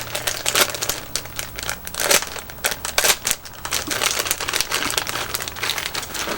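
Plastic candy packaging crinkling and rustling as it is handled, in quick irregular crackles.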